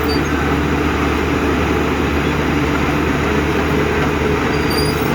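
Heavy diesel engine of a construction machine running steadily with a low, even drone.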